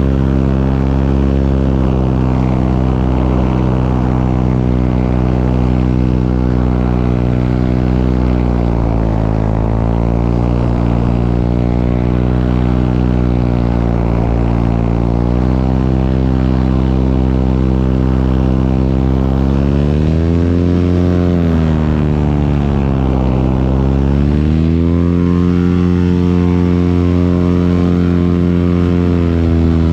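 Paramotor engine and propeller running steadily. The pitch dips briefly about nine seconds in, drops twice more deeply a little past the middle, then holds steady with the throttle.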